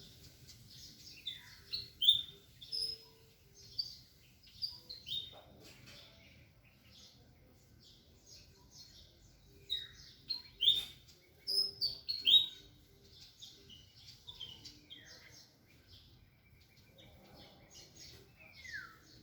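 Small songbirds chirping and calling, with many short high notes and quick downward-sliding calls coming in two busy spells, about a second in and again around ten seconds in, with a single falling call near the end.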